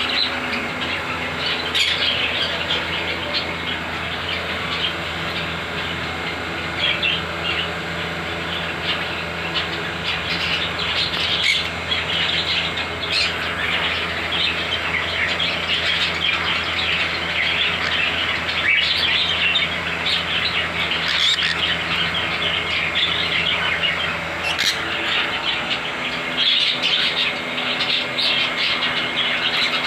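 A mixed flock of pet parrots (budgies, cockatiels, ringnecks and sun conures) chirping and chattering continuously, a dense overlapping twitter with occasional sharper calls. A steady low hum runs underneath and stops about 25 seconds in.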